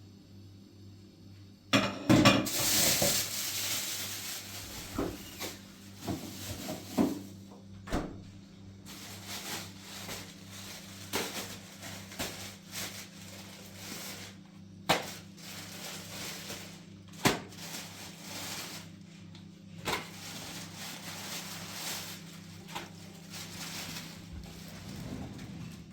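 Irregular knocks and clattering of objects being handled, starting suddenly with a loud burst about two seconds in, over a steady low hum.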